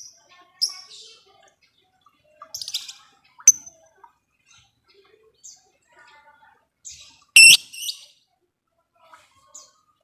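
Lovebirds calling: short, sharp, high chirps and brief chattering bursts with gaps between them. The loudest is a harsh screech about seven and a half seconds in.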